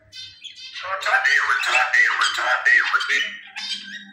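Caged pet birds squawking: a quick run of harsh, rising-and-falling calls starting about a second in and lasting around two seconds.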